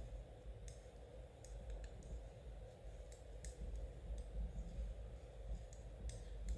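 Knitting needles clicking lightly and irregularly against each other as stitches are worked, about a dozen soft, sharp clicks, over a faint steady room hum.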